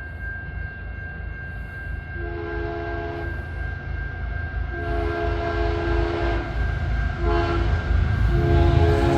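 Lead locomotive's air horn, on a BNSF GE ES44AC, sounding the grade-crossing signal: long, long, short, then a final long blast held near the end. Underneath, the low rumble of the approaching diesel locomotives grows steadily louder.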